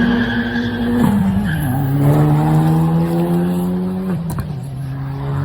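Car doing a burnout: the engine is held at high, steady revs while the tires squeal. The engine note steps down about a second in and again about four seconds in.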